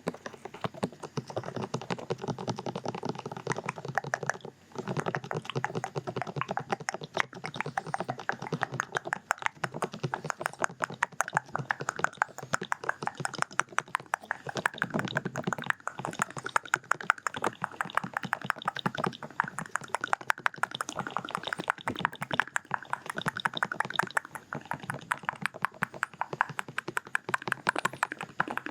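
Close-up ASMR ear-scratching and tapping on the microphone: dense, rapid muffled taps and crackles. After a brief break about four and a half seconds in, it runs on as fast 'duk-duk' thudding.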